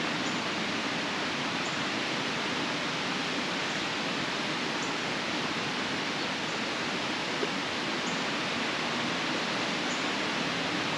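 Rushing water of a storm-swollen river, a steady, even roar.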